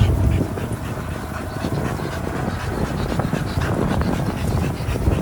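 Dogs panting, with a low rumble that stops about half a second in.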